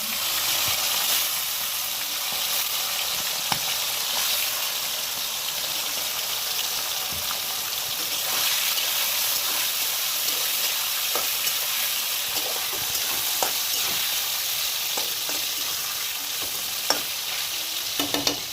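Marinated chicken pieces sizzling steadily as they fry in hot mustard oil in a kadhai, with occasional clicks and scrapes of a spatula stirring them.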